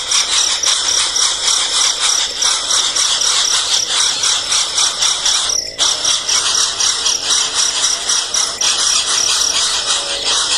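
Nestlings begging loudly, a dense, continuous shrill chirping of many rapid high-pitched calls, with a brief break about halfway through.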